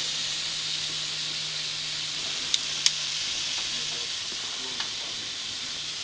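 Water mister spraying a steady hissing fine mist, with two sharp clicks about two and a half and three seconds in and a fainter one near the end.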